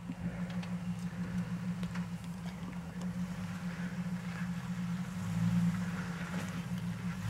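Off-road Jeep engines running low and steady as they crawl up a rocky wash, growing a little louder about five seconds in.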